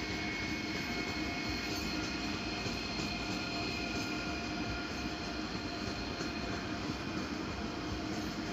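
A train standing in the station with its onboard equipment running. It gives a steady hum and rush, with several held whining tones that do not change.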